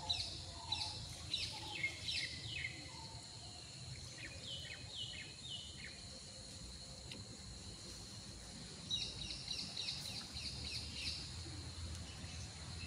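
Birds calling in three runs of quick, downward-sliding whistled notes: one at the start, one about five seconds in and one near nine seconds in, over a low steady background of outdoor noise.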